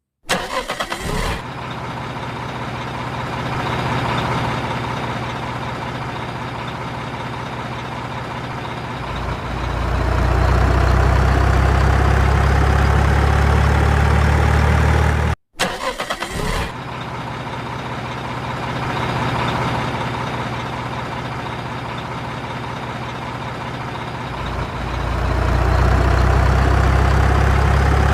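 A truck engine sound effect, played twice in the same form with a short break between. Each run has a brief clattery start and a steady idle, then turns deeper and louder with a slowly rising pitch that holds.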